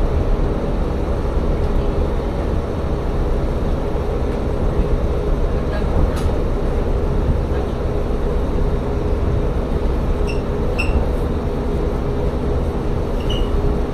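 Inside a diesel railcar, a steady engine and running hum with a constant drone. A few light rings of glass wind chimes hung in the car come near the end.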